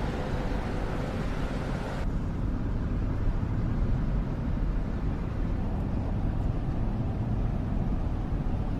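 Steady road and engine rumble heard from inside a moving car. The higher hiss drops away abruptly about two seconds in, leaving mostly a low rumble.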